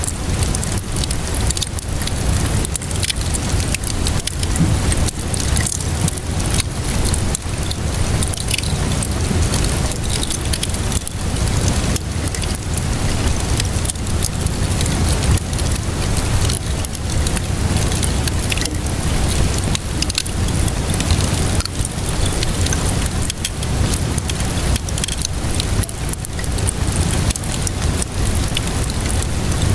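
Wood fire crackling with steady rainfall: a dense patter of small pops and drops over a constant low rumble.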